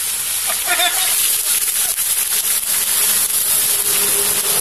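Sliced onions frying in hot oil in a wok, a steady sizzle, with the crinkling and rubbing of a plastic bag as a paste is squeezed from it into the pan. A short voice is heard about a second in.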